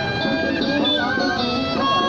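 Traditional Vietnamese ceremonial music: an ensemble with a bowed fiddle carrying a wavering, sliding melody over other instruments.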